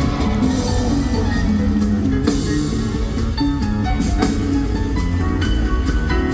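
Live band playing an upbeat funk-rock number through a concert PA, with electric guitar, a driving bass line and drum kit.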